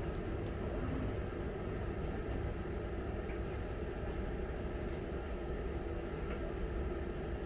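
Miele Novotronic W921 washing machine running mid-cycle: a steady low rumble and hum, with a few faint clicks.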